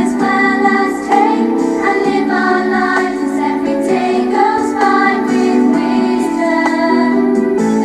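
A song playing: singing voices over an instrumental backing, with held notes moving through a melody.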